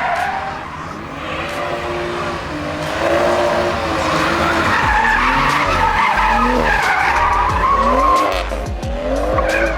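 Car engine revving up and down again and again while the tyres squeal and skid through drift turns.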